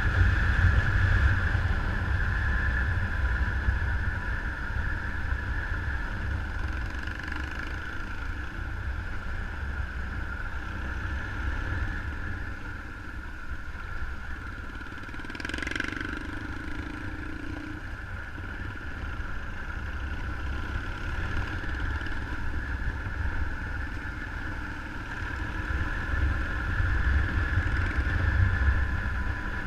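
Motorcycle riding at a steady pace, the engine running under a heavy low rumble of wind on the microphone. About halfway through comes a brief hiss, then a hum lasting about two seconds.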